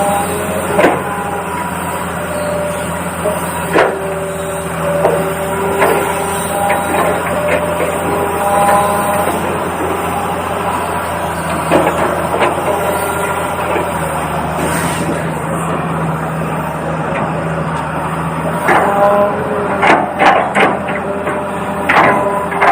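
Toy RC excavator working, with a steady motor hum and scattered clicks and knocks that come thicker near the end.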